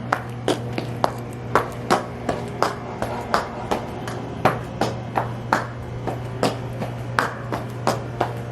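High-heeled shoes stomping in a steady rhythm: about three sharp heel strikes a second, over a low steady hum.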